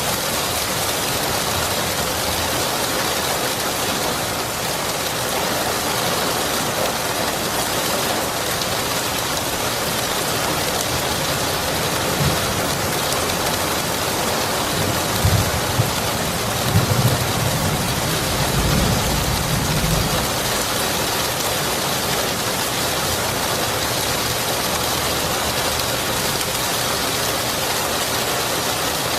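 Steady rain, with a low rumble of thunder rolling through about halfway.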